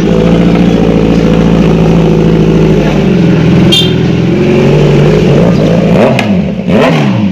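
Motorcycle engines running steadily, then revved near the end with the pitch rising and falling.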